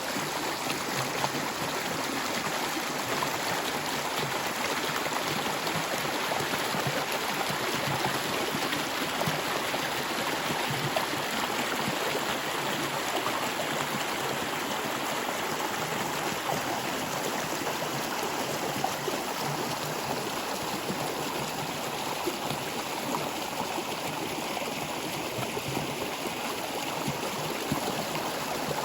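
Water flowing in a stream, a steady, even sound without let-up.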